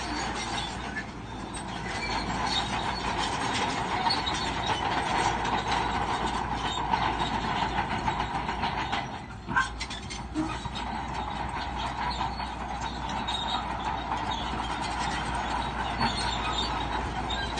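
Crawler bulldozer working, its engine running under the steady clatter and squeal of steel tracks, with a short drop in level about halfway through.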